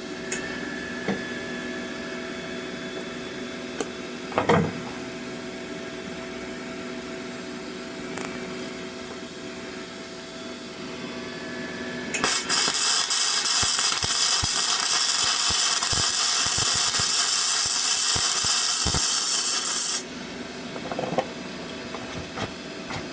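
Flux-core arc welding with a Parkside PMSG 200 A1 welder: a loud, dense crackle from the arc lasts about eight seconds, starting some twelve seconds in and cutting off sharply. Before it there is a steady hum and one knock.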